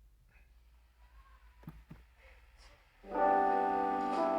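Near silence with a few faint ticks, then about three seconds in a keyboard chord starts and holds: music beginning to play from a video.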